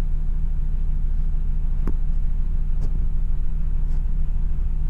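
Van engine idling rough with a misfire, a steady low rumble with a few faint ticks. The misfire is logged as code P0302, a cylinder 2 misfire, which the owner puts down to the spark plugs or ignition coil.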